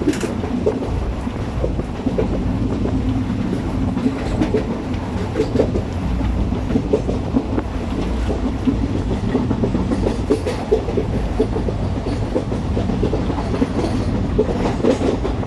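Passenger express train running at speed, heard from aboard a coach: a steady low rumble of the wheels on the track with irregular clacks and knocks over the rail joints.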